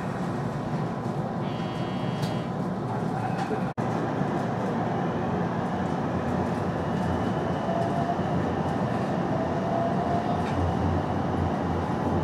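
JR West Series 225 electric train running, heard from inside a cab: a steady rumble of wheels and running noise. A short electronic tone sounds about two seconds in. Later a faint motor whine rises slowly in pitch as the train picks up speed.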